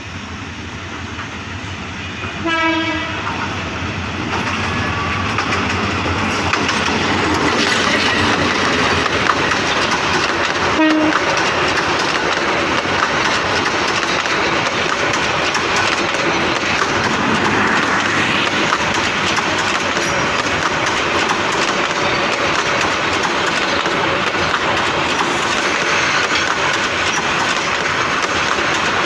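Bangladesh Railway passenger train: the diesel locomotive gives a short horn blast about two and a half seconds in and a briefer toot near eleven seconds. The coaches then run past close by, their wheels on the rails making a steady loud rumble that builds from about six seconds and holds.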